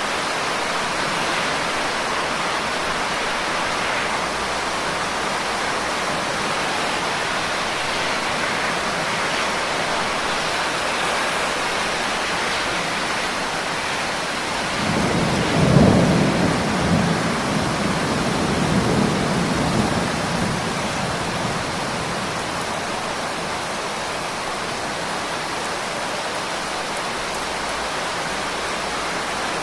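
Steady rain falling, with a roll of thunder about halfway through that swells, peaks and rumbles away over several seconds.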